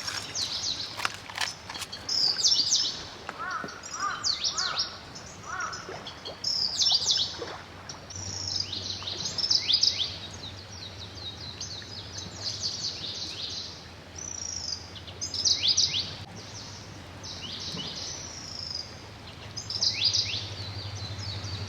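Wild birds calling over and over: a continuous stream of short, quickly falling chirps, with a few lower notes a few seconds in.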